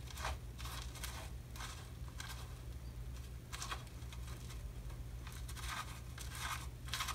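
A kitten scratching and shuffling in cat litter in a litter box: irregular short gritty rustles, some in quick runs, over a low steady hum.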